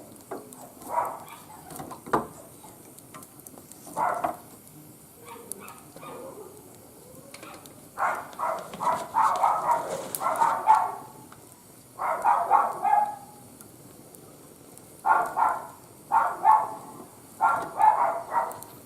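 A dog barking, a few single barks at first and then quick volleys of barks through the second half.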